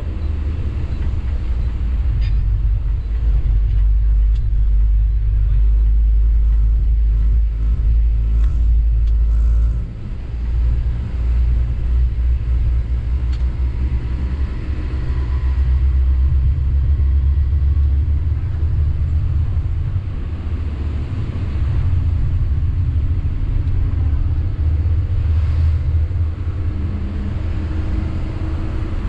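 Sany 6x4 dump truck under way, its diesel engine and drivetrain making a steady deep rumble that eases briefly about ten seconds in.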